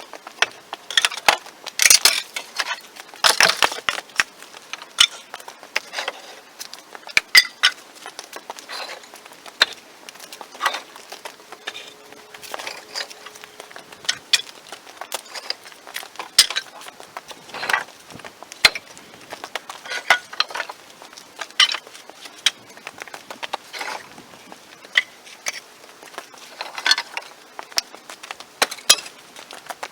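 Split firewood being handled and stacked: an irregular clatter of sharp wooden knocks and crunches, some louder, a few ringing briefly.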